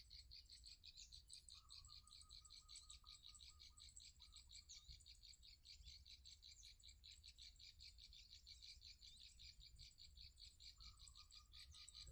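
Faint insect chorus trilling steadily, a rapid even pulsing, with a fainter, lower trill coming in twice, once early and once near the end.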